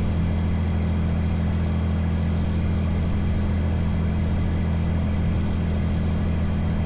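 Cessna 182's piston engine and propeller running at a steady low taxi power, a constant low drone.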